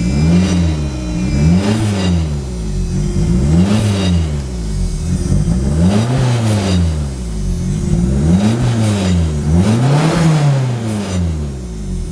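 Lancia Delta engine free-revving on a newly fitted standalone engine management system: about six blips of the throttle, each rising and falling back, between steady idling before and after. The setup is not yet fully tuned.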